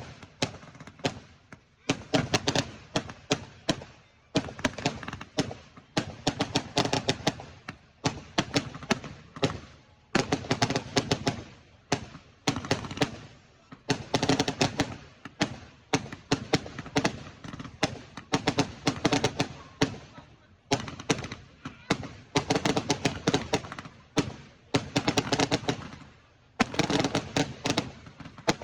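Fireworks going off in repeated volleys, each a dense run of sharp crackling bangs that fades out, a new volley starting every second or two.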